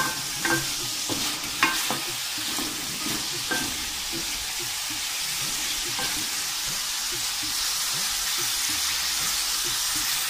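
Chicken pieces sizzling steadily as they fry in a metal karahi. A wooden spoon stirs them, knocking and scraping against the pan several times in the first six seconds.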